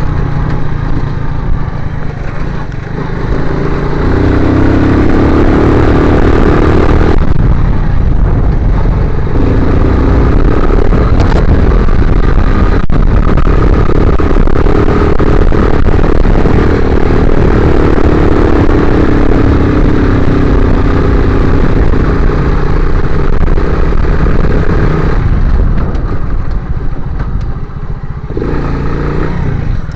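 Motorcycle engine running under load while riding, its pitch climbing and holding. The throttle closes briefly about seven seconds in and again near the end, then the engine pulls again.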